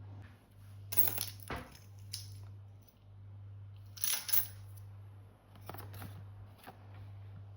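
Small hard objects being handled and set down: a few separate clinks and rustles, the loudest about four seconds in, over a steady low hum.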